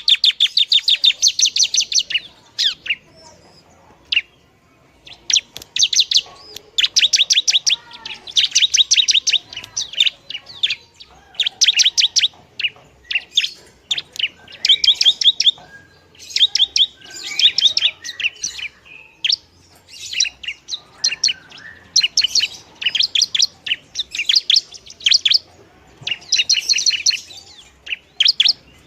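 Long-tailed shrike (pentet) singing: rapid runs of sharp, high chattering notes in phrases of a second or two, broken by short pauses.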